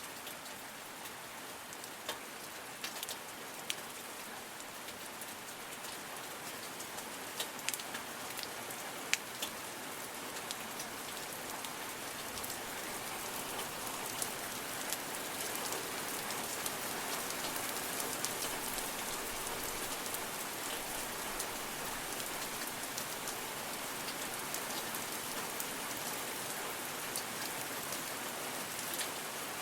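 Steady rain falling, with individual drops ticking sharply now and then, growing a little heavier about halfway through.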